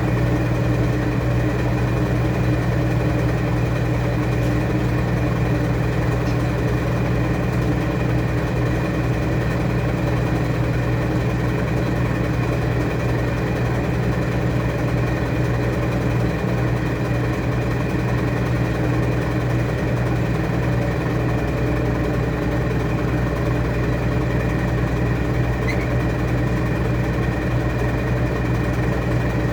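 Washing machine running with a steady, even hum that does not change.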